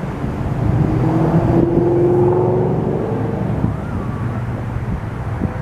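SEPTA Silverliner V electric train approaching over a low rumble, sounding its Nathan K3LA five-chime horn as one chord for about two and a half seconds, starting about a second in.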